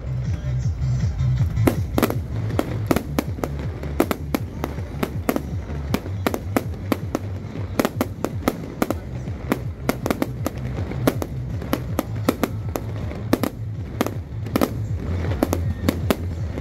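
Aerial fireworks shells bursting in rapid, irregular succession, several loud bangs a second, with bass-heavy music playing underneath.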